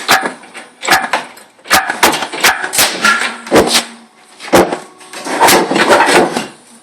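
Irregular knocks and clanks of tools and metal parts being worked on while an engine and gearbox are loosened for removal, about a dozen sharp strikes, some ringing briefly.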